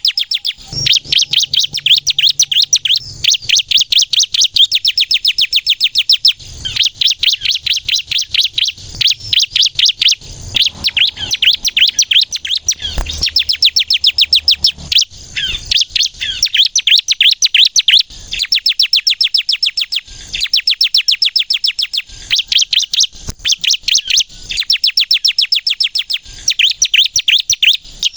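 Bar-winged prinia (ciblek kristal) singing loudly and continuously. It pours out rapid trains of high, sharp notes, many to the second, in phrases of a few seconds broken by brief pauses.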